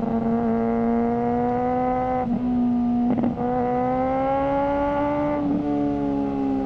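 Suzuki GSR600's inline-four engine through a GPR Ghost aftermarket exhaust, running at steady high revs under way. The pitch climbs gently through the middle and eases off near the end, with a few brief interruptions in the note.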